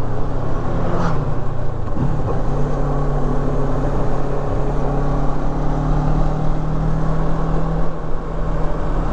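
Kawasaki Versys 650's parallel-twin engine running at a steady cruise while riding, with a brief change about one to two seconds in before it settles into an even drone.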